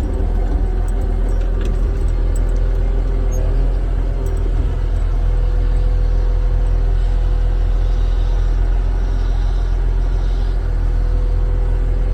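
Diesel engine of a CAT wheel loader running steadily, a continuous low drone with a steady hum above it.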